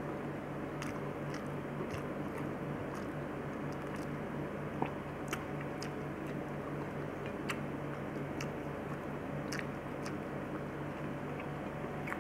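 A person chewing and eating close to the microphone, with scattered small sharp clicks, the loudest about five seconds in, over a steady low hum.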